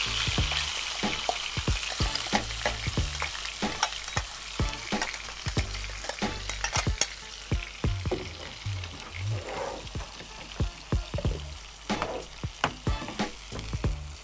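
Ground onion-and-tomato paste frying in hot oil in a pan, stirred with a spatula. It gives a steady sizzle that is loudest at the start and eases off, with frequent sharp pops and clicks throughout.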